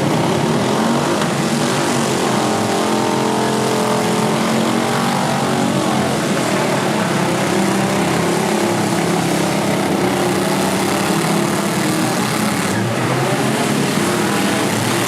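Many four-cylinder demolition derby cars' engines running and revving at once, their overlapping pitches rising and falling.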